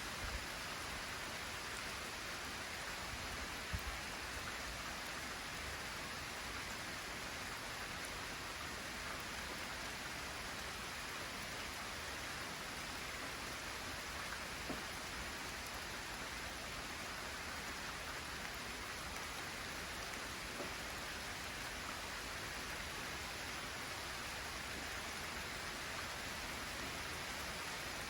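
Light rain falling steadily with wind, an even hiss with a few scattered drop ticks.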